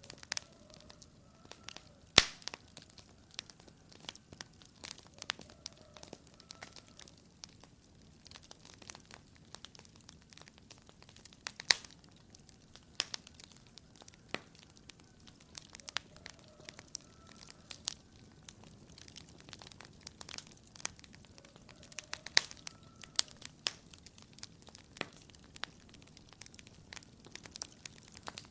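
Wood fire in a fireplace crackling: irregular sharp pops and snaps over a low hiss, with the loudest pops about two seconds in, near the middle and about three quarters of the way through.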